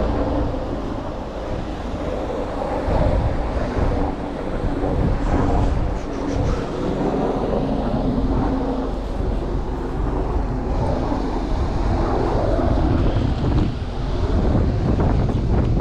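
Wind buffeting the microphone: a continuous, uneven rumble that rises and falls in gusts.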